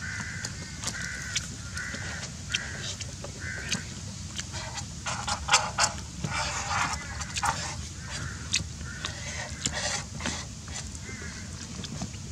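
A bird giving short, repeated nasal calls, about two a second, stopping for a few seconds in the middle and starting again near the end, with scattered clicks throughout.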